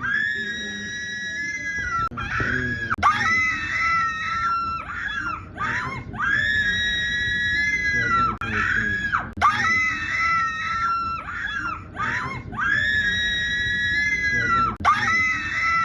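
High-pitched screaming. Long held screams about every three seconds alternate with shorter wavering cries, in an evenly repeating pattern.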